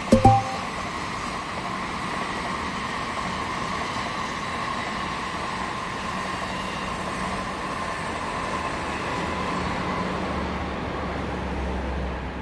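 Electric train passing at speed, a steady running noise on the rails, with a couple of sharp knocks right at the start.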